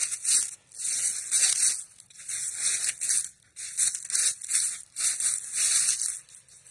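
Footsteps crunching through dry leaf litter, about two steps a second in an uneven walking rhythm.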